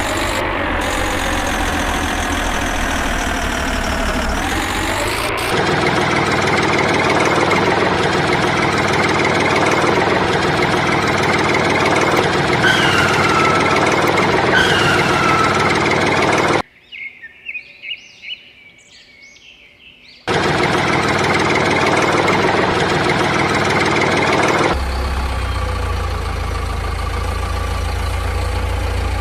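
Tractor engine sounds in abruptly cut segments: an engine revving up and down, then running steadily and heavily. A little past the middle it drops out for a few seconds, leaving small clicks and chirps, then comes back and settles into a lower, rumbling idle for the last few seconds.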